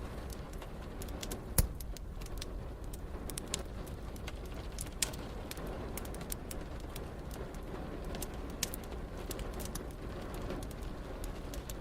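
Wood fire crackling with scattered sharp pops, a louder pop about one and a half seconds in, over a steady low background rumble.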